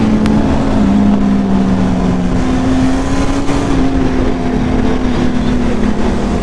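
Sport motorcycle engine running at a steady speed, its pitch shifting slightly up and down, over a steady rush of wind and road noise.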